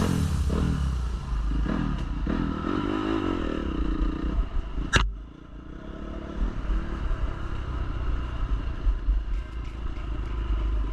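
Dirt bike engine revving up and down repeatedly, then running lower and steadier after a sharp click about five seconds in.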